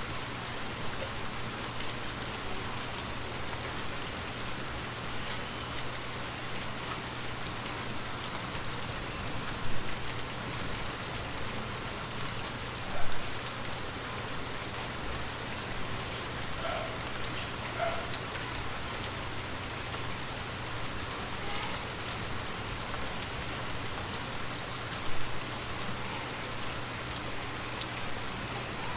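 Steady rain falling on a surface, an even hiss of drops, with three sharper taps standing out about ten, thirteen and twenty-five seconds in.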